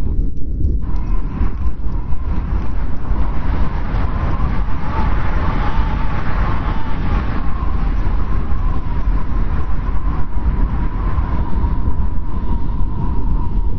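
Strong wind blowing steadily in a snowstorm: a deep rumble with a thin wavering whistle over it, swelling a little in the middle.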